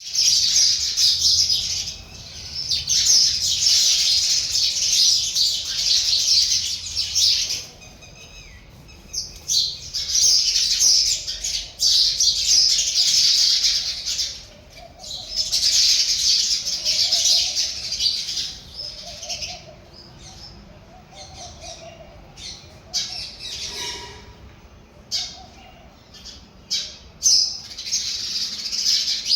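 A flock of house sparrows chirping in dense, loud bouts lasting several seconds, broken by quieter stretches of scattered single chirps.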